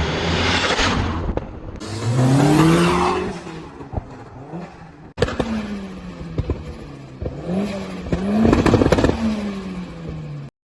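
Car engine accelerating, its pitch climbing and then dropping back several times as it shifts through the gears. The sound breaks off abruptly about five seconds in and picks up again with more rising and falling revs, then stops suddenly near the end.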